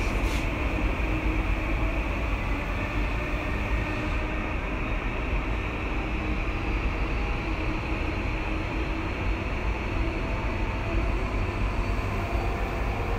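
Tokyu 2020 series electric train running between stations: a steady rumble of wheels and running gear, with a faint high whine that rises slowly in pitch from about four seconds in.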